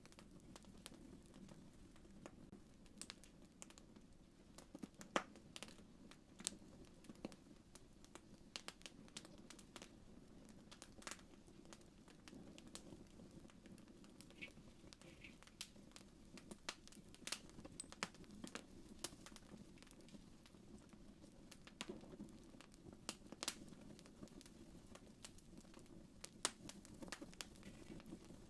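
Fireplace fire crackling: irregular sharp pops and snaps, some louder than others, over a faint steady low rumble.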